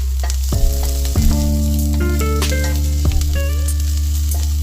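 Chopped onion and garlic sizzling in olive oil in a pan, with occasional clicks of a utensil stirring them. Background music with held low notes and a changing melody plays over it.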